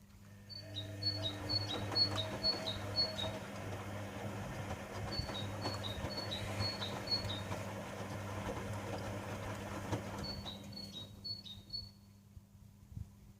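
Privileg Sensation 9245 washing machine's motor turning the drum: a steady mechanical hum that starts about half a second in and runs down near the end. Three runs of short, high chirps, about two a second, sound over it during the turn.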